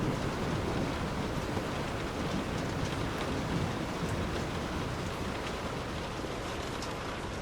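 Steady rain falling, with a low rumble of distant thunder underneath that slowly dies down.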